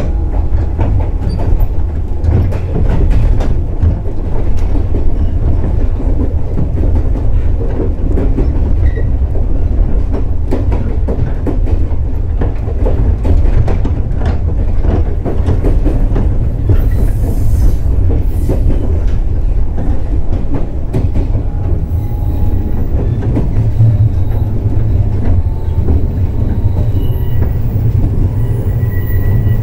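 JR Kyushu 415 series electric multiple unit running at speed, heard from inside the passenger car: a steady low rumble of the bogies and motors, with wheels clicking over rail joints.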